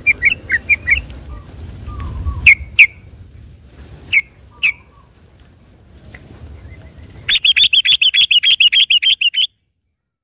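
Sooty-headed bulbul singing: a run of short chirps, then scattered loud sharp notes, then a fast rattling string of about seven notes a second that cuts off suddenly near the end.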